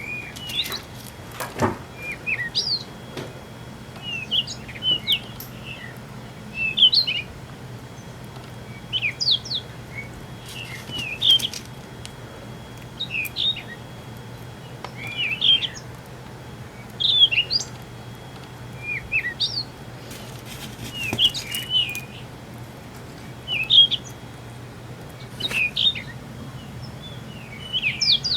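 Birds chirping in short, quick phrases that repeat every second or two, over a steady low hum.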